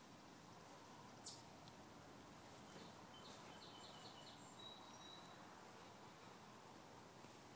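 Near silence with faint background hiss; a single sharp click a little after one second in, then a few faint, high bird chirps in a quick run about three to five seconds in.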